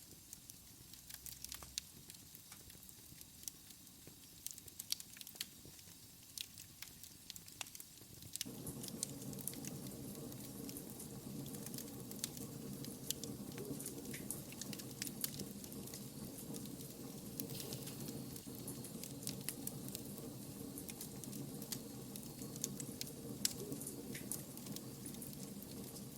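Wood fire crackling, with sharp pops and ticks throughout. About eight seconds in, a steady low hum joins the crackling and carries on.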